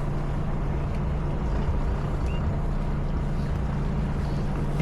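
Tour boat's engine running steadily under way, a constant low drone.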